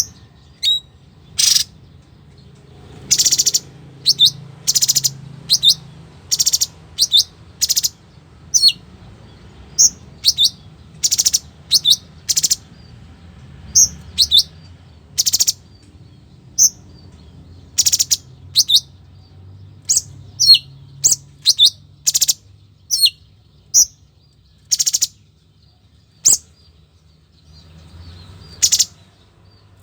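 A bird known in Indonesia as a cungkok singing vigorously: short, sharp, high chirps and whistles, many falling in pitch, given about once a second in irregular runs over a faint low hum.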